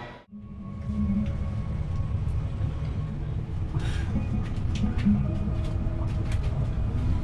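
A steady low rumble of a moving vehicle, with a few faint clicks and knocks over it; it starts abruptly just after a brief dropout at the very beginning.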